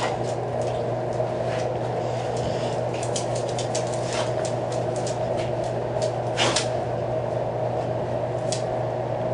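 Steady low hum of room ventilation, with scattered light clicks and taps and one louder knock about six and a half seconds in.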